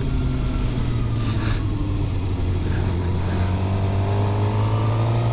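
Motorcycle engine running under way with road and wind noise, a steady drone whose pitch creeps slightly upward in the second half as the revs rise.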